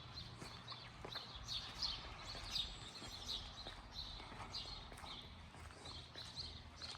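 Footsteps at a walking pace, about two to three steps a second, faint and even.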